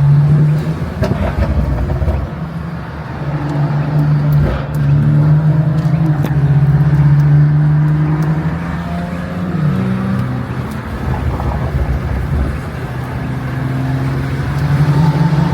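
BMW M340i's turbocharged inline-six running at a steady cruise, heard from inside the cabin: a steady engine drone that dips briefly about ten seconds in, over road noise and wind buffeting through partly open windows.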